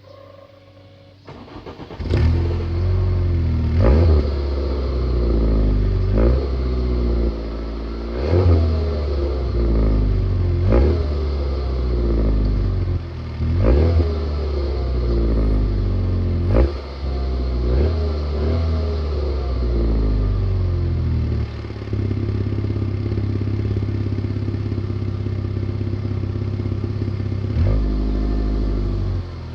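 Seat Ibiza 6K 1.6i four-cylinder petrol engine heard through its exhaust, coming in about two seconds in and revved repeatedly, each rev rising in pitch and falling back to idle. Several seconds of steady idle come near the end, before one more rev.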